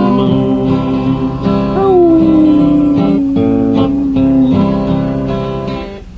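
Acoustic guitar strumming under a man singing the final words of a country song, holding the last note for about three seconds. The guitar then rings out and the song ends near the end.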